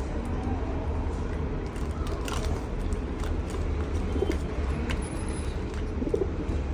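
Pigeons cooing in short low calls over a steady low rumble, with a few sharp clicks scattered through.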